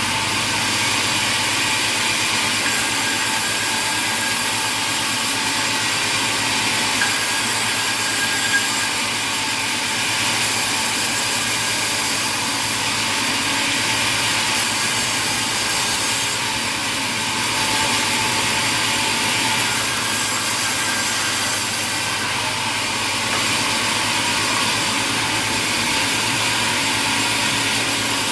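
Sawmill machinery running steadily: a constant hissing noise over a low hum, shifting slightly a couple of times.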